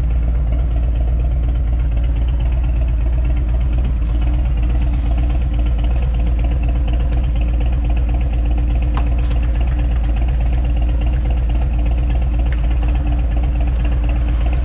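Harley-Davidson motorcycle's V-twin engine idling steadily.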